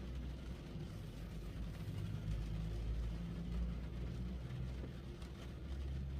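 Rain falling on a car, heard from inside the cabin, over a low steady rumble from the car.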